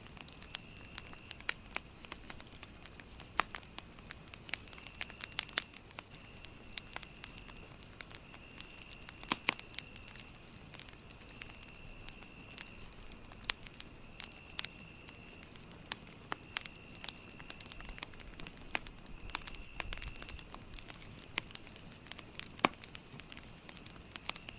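Campfire crackling: irregular sharp pops and snaps, a few louder ones around the middle and near the end. Behind it runs a steady high chirping pulse, about three a second, and a lower trill that comes and goes every second or two.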